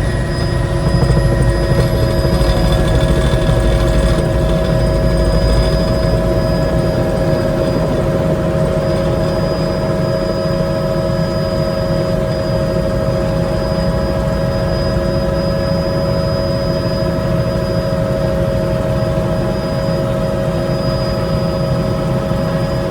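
Helicopter running as it lands: a steady turbine whine over the low beat of the rotor, a little louder in the first few seconds and then settling to an even level.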